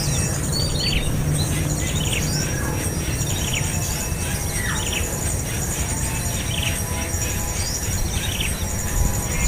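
Small birds chirping again and again in short, downward-sweeping calls over steady, high insect trilling, with a low rumble underneath.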